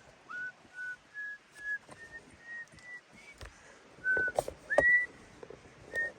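A man whistling a tune in short, clear notes, about two a second, the melody stepping gradually higher. Louder knocks and rustles come about four and five seconds in.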